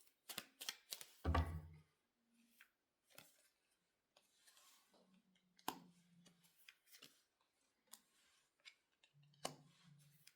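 Tarot cards being handled: a run of light clicks and snaps as cards are shuffled and laid down, with one louder low thump about a second in.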